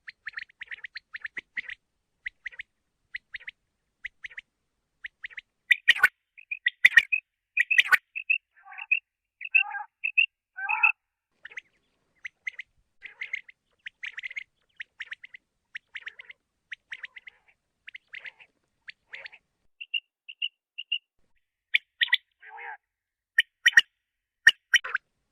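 Common quail calling: rapid runs of short, sharp chirping notes, broken now and then by a few lower, falling notes. A handful of sharp clicks come about six to eight seconds in and again near the end.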